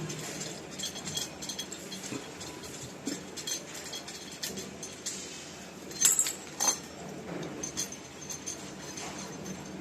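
Scattered light metallic clinks and taps from hand work on a brass washing machine tap being threaded into its wall fitting. The two loudest clinks come about six seconds in.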